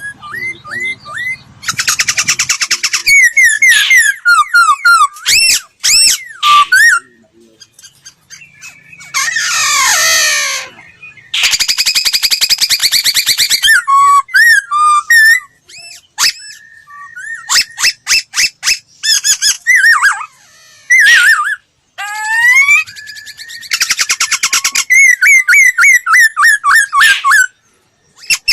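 Laughingthrush singing a long, loud, varied song: clear whistled slurs rising and falling, quick trills and harsh rattling phrases, broken by short pauses.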